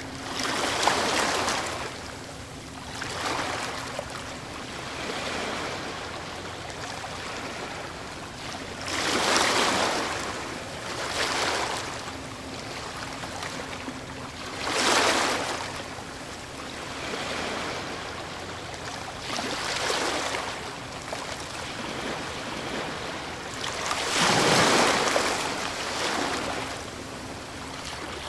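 Ocean waves breaking on a shore: a steady wash of surf with a louder wave crashing every few seconds, each surge swelling and fading over a second or two.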